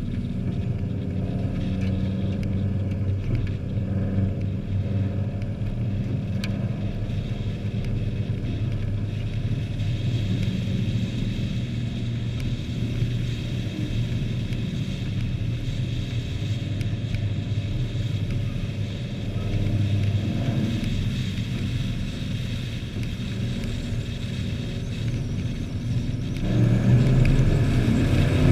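Engines of racing trucks running around an oval during a heat race, a steady mix of engine tones that grows clearly louder near the end.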